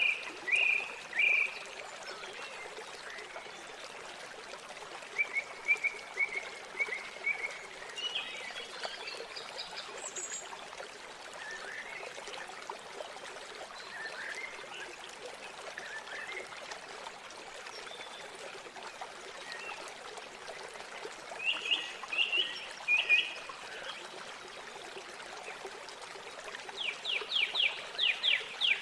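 River water flowing with a steady rush, while songbirds call in short chirps and phrases at intervals. Near the end, one bird gives a quick run of sharp repeated notes.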